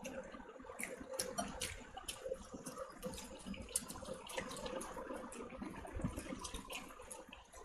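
Close-up wet chewing and lip smacking from a person eating curried chicken: a rapid, irregular run of small moist clicks and smacks.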